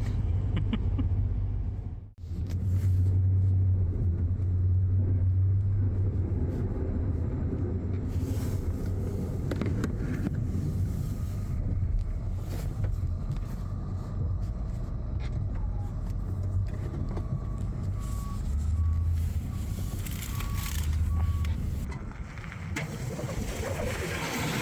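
A plow truck's engine runs steadily with a low rumble. About three quarters of the way through comes a short run of evenly spaced beeps at one pitch, about two a second.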